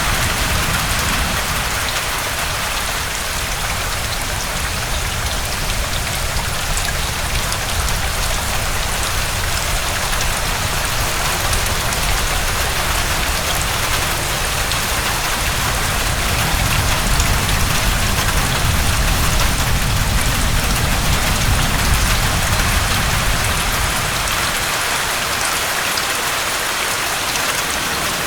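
Heavy rain falling steadily, with a low wind rumble underneath that rises and falls and drops away near the end.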